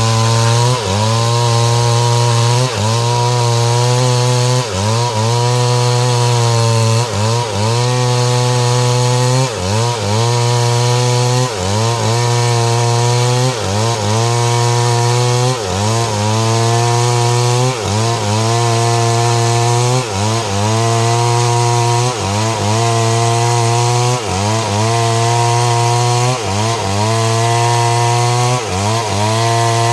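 STIHL MS 382 two-stroke chainsaw with a 30-inch bar running under load, cutting through mahogany. Its engine note dips and recovers about every two seconds as the chain bites.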